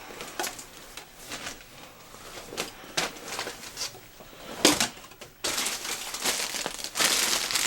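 Packaging crinkling and rustling as it is handled: scattered rustles at first, becoming louder and continuous about two thirds of the way in.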